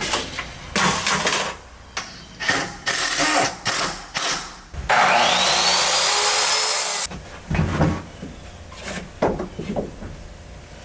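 Knocks and clatter of lumber being handled, then a power tool motor spins up with a rising whine and runs loud for about two seconds before stopping abruptly, followed by more knocks.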